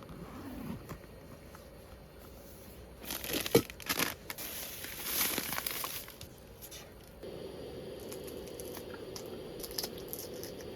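Crinkling, tearing handling noise in a few bursts from about three to six seconds in, with one sharp click near the start of the bursts.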